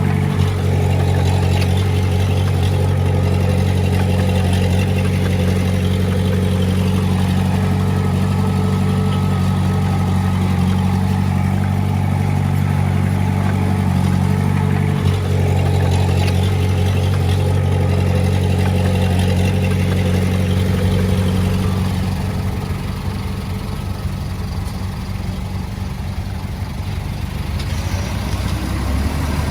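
Diesel engine of working earthmoving machinery running steadily, easing off about three-quarters of the way through and building up again near the end, with an occasional brief knock.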